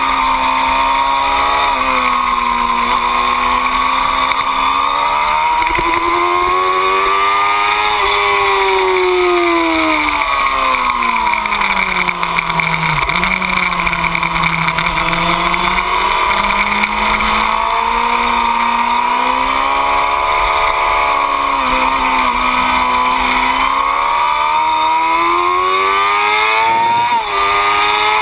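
2008 Yamaha YZF-R6's inline-four engine running hard, its pitch climbing and falling with the throttle. About halfway through, the pitch falls in a long slow curve as the rider rolls off, with a quick flick at the bottom, then climbs again through the last seconds, over a steady rush of wind and road noise.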